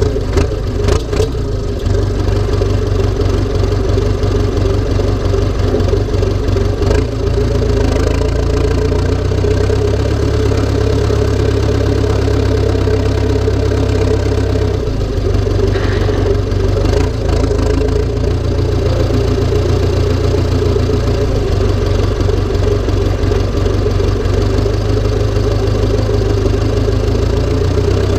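Massey Ferguson tractor's diesel engine running steadily, with a few brief knocks or clicks near the start and around the middle.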